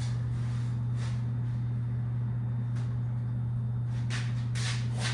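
Steady low electrical hum, even in pitch and level, with a few light clicks and taps, mostly near the end.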